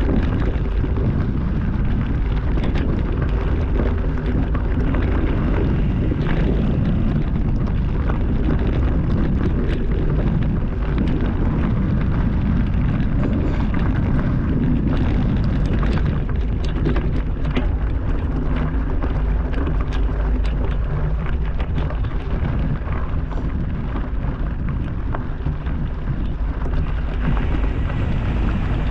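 Wind buffeting a moving helmet or handlebar camera's microphone as a steady low rumble, with constant small clicks and rattles from a mountain bike rolling over a rocky trail.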